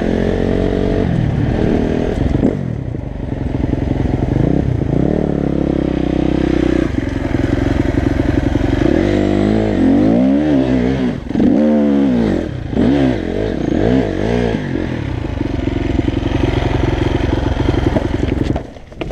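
Husqvarna 250 enduro motorcycle engine heard onboard while riding, the revs rising and falling again and again as the throttle is worked over rough ground. The engine sound drops off suddenly near the end.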